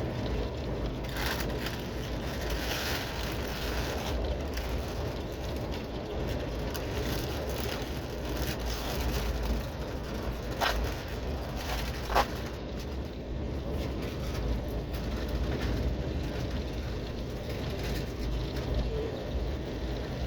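Steady low rumble of a moving passenger train heard from inside the coach, with two sharp clicks about ten and twelve seconds in.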